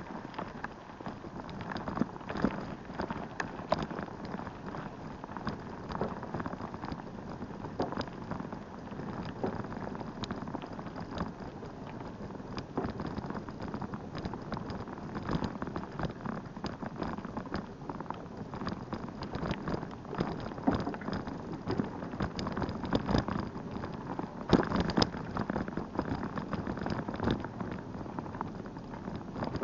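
A bicycle in motion: a steady, dense crackle of many small irregular knocks and rattles, with a few louder jolts near the end.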